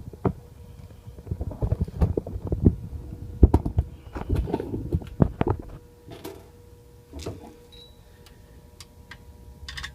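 Irregular knocks, clicks and rattles of hand tools and metal parts being worked on an AC unit's electrical disconnect, thickest in the first half, over a faint steady hum.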